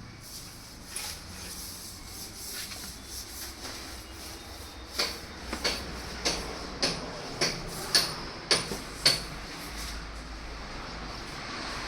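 A run of about eight sharp knocks, evenly spaced at almost two a second, starting about five seconds in, over a low steady background noise.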